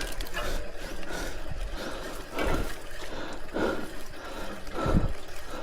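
Mountain bike riding on a wet trail: steady rough tyre and water noise, with four louder rushes at roughly one-second spacing.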